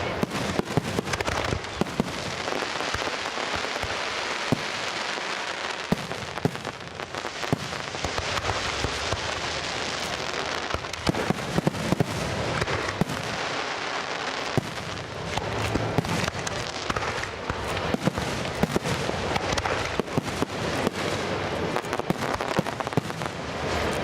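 Fireworks display: a dense, continuous crackle of many small sharp cracks and pops from bursting shells, over a steady hiss.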